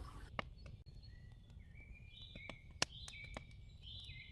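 Faint birdsong: short, steady whistled notes stepping from one pitch to another, with a few sharp clicks or crackles scattered through.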